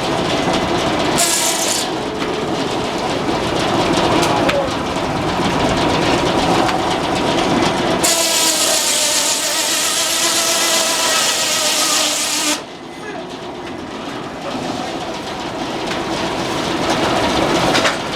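Frick sawmill running. For about four seconds in the middle, a loud high whine with hiss rises over the machinery, then drops away suddenly.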